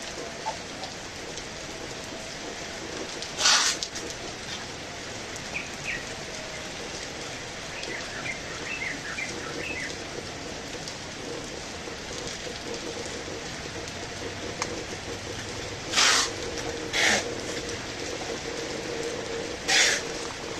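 Heavy rain falling steadily, broken by four brief, louder rushes of noise spread through the stretch. Faint bird chirps come through the rain for a few seconds.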